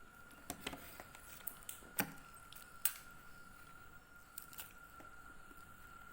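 A few sharp clicks and taps of small objects being handled, the loudest about two seconds in and another just before three seconds, over a faint steady high-pitched whine.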